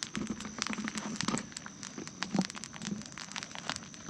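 Bonfire of burning rubbish, plastic among it, crackling with many irregular sharp snaps and pops.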